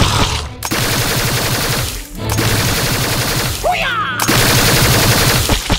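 Rapid automatic gunfire in long sustained bursts, broken by short pauses about half a second, two seconds and four seconds in, with a brief cry heard near the end.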